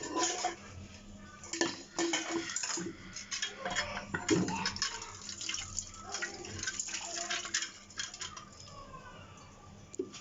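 Dishes and utensils clinking and clattering irregularly as they are handled, with some water, loudest about two and four seconds in.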